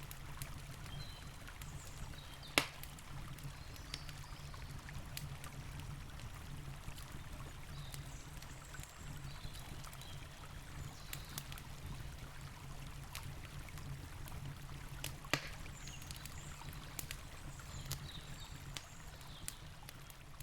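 Campfire crackling with scattered sharp pops, two louder ones about two and a half seconds in and about fifteen seconds in, over a steady low rush of flowing river water.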